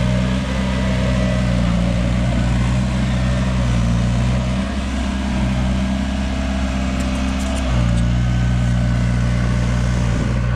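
Heavy diesel engine running steadily; its note changes for about three seconds in the middle, then settles back.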